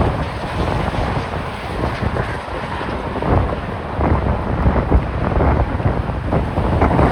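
Gusty wind buffeting a phone's microphone, a loud rumbling rush that swells and eases from moment to moment.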